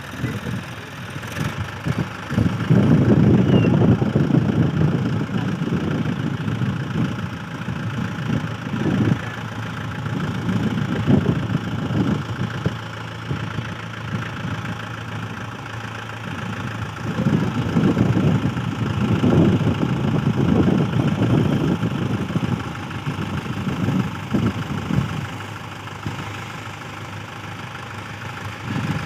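Mahindra 575 tractor's diesel engine running, growing louder twice for several seconds at a time.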